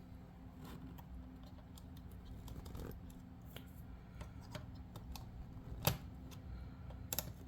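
Small plastic clicks and taps from handling an H0 scale model passenger car while pressing a snap-in step into place, the sharpest click about six seconds in. A faint steady hum runs underneath.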